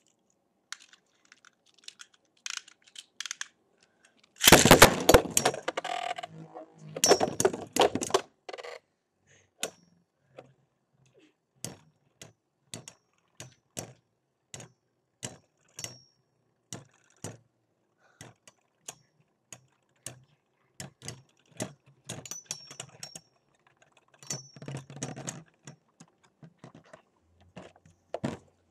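Beyblade spinning tops, Rock Aries and Lightning L-Drago, clashing in a plastic stadium. A burst of fast, loud rattling collisions comes about four seconds in, then sharp single clicks about once or twice a second as the tops knock together, with a few quicker clusters near the end.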